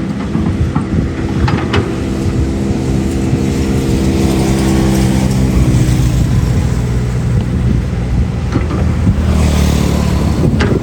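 Excavator's diesel engine running under load, with a steady note that grows louder over the first few seconds, and scattered knocks; a sharp knock comes right at the end.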